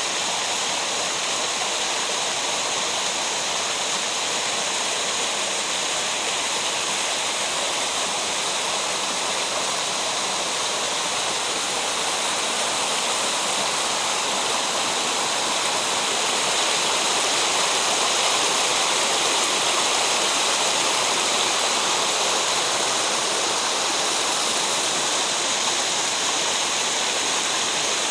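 Rushing water of a mountain gorge stream: a steady, loud rush that swells a little just past the middle.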